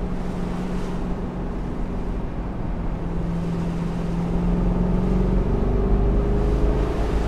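Chevrolet Camaro's 6.2-litre V8 running steadily while cruising up a mountain road, over a rush of road noise. The engine gets a little louder about halfway through.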